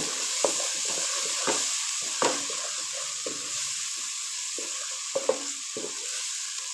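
Tomato-onion spice paste sizzling in oil in a karahi while a wooden spatula stirs it, scraping and knocking against the pan: the freshly added ground spices being mixed in and fried. The sizzle runs steadily under the knocks, the sharpest about two seconds in and two close together a little after five seconds.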